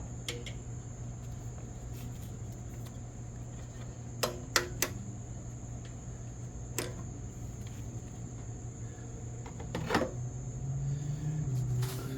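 A handful of sharp clicks and taps from small carburetor parts being handled, three in quick succession about four seconds in. A steady low hum runs underneath.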